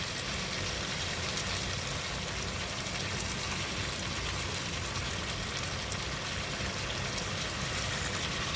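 Chicken and zucchini frying in a pan, a steady sizzle with faint crackles.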